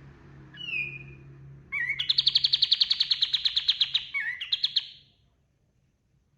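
Kapas tembak songbird singing: a short slurred whistle, then a loud, fast, even trill of about a dozen notes a second for around two seconds, closed by a brief phrase, after which the bird falls silent.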